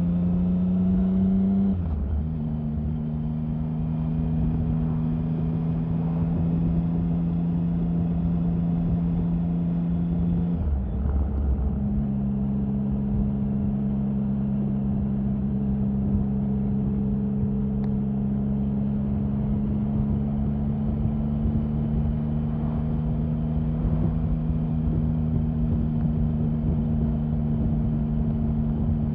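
Triumph Sprint 1050 motorcycle's three-cylinder engine running steadily under way, its note stepping down in pitch twice, about two seconds in and again about eleven seconds in, then holding even.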